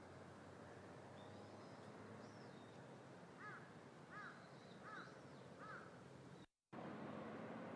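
A bird calling four times in a row through the middle, about three-quarters of a second apart, each call a short arched note, over a faint steady background hum. Fainter, higher chirps of small birds are scattered throughout, and the sound drops out completely for a moment near the end.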